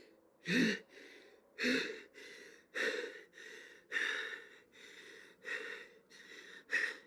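A man breathing hard in ragged gasps, about one breath a second. The first couple of gasps carry a voiced catch, and the rest are quieter and breathier: the heavy breathing of someone in distress and pain.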